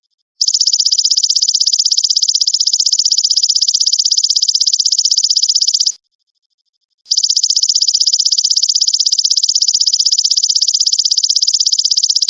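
Belalang emas (golden grasshopper) insect call: a high, rapidly pulsing buzzy trill, given in a phrase about five and a half seconds long, then after a pause of about a second, a second phrase that carries on.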